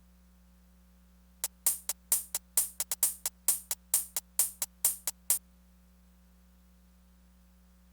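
Korg Electribe Sampler ES2 playing a short pattern of bright, sharp percussion hits in an uneven rhythm. It starts about a second and a half in and stops abruptly a few seconds later. A faint steady low hum sits underneath.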